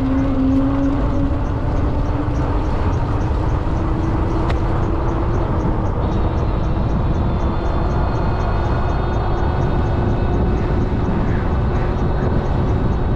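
Heavy wind rumble on the microphone of a moving electric bike, steady throughout, with a thin whine that rises slowly in pitch over the first few seconds. A faint regular ticking runs under it at about three or four ticks a second.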